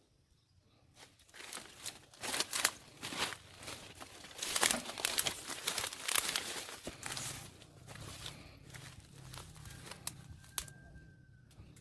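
Irregular crinkling and rustling with sharp scraping noises, loudest in the middle. A faint steady low hum joins in the second half, and a thin held tone sounds briefly near the end.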